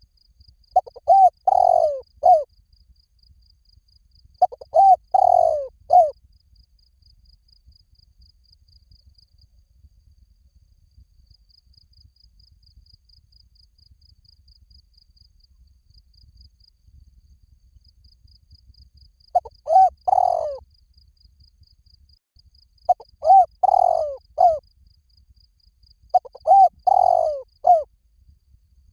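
Spotted dove giving its multi-note cooing call: two phrases early on, a pause of about thirteen seconds, then three more phrases toward the end. A faint, fast, high ticking runs underneath.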